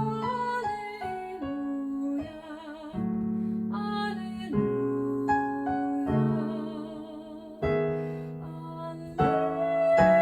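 Classical vocal music: a trained singer holds notes with vibrato over piano chords.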